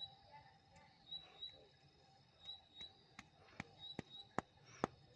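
A ratchet wrench clicking in a run of sharp metallic clicks, about two or three a second over the second half, as a spark plug is worked loose. Birds chirp faintly in the background.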